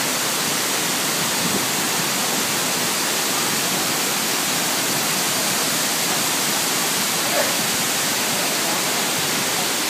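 Steady rush of falling water from Fukuroda Falls, a large multi-tiered waterfall, an even noise that keeps up without a break.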